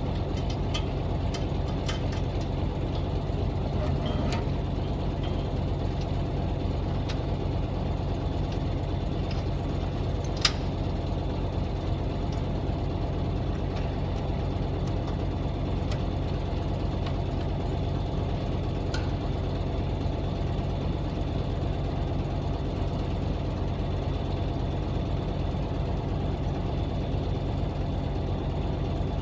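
Truck engine running steadily at an even pitch, with a few light clicks and one sharper click about ten seconds in.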